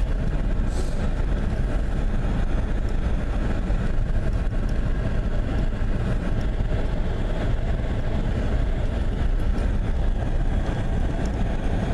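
Pickup truck running with a steady low rumble.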